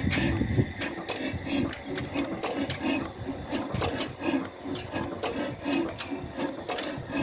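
Old Ruston stationary diesel engine running at a slow, steady beat, about two thumps a second, with sharp mechanical clicks between them.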